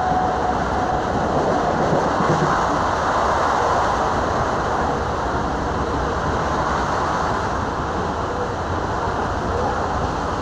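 Steady rumble and rush of an electric suburban local train running at speed, heard from a window seat inside the carriage.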